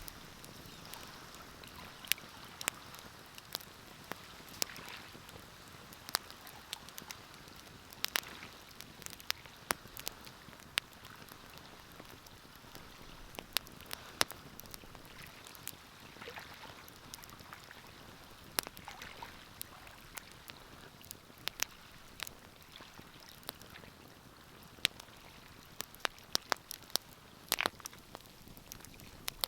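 Wood fire crackling in a fireplace: irregular sharp pops and snaps over a soft hiss of burning.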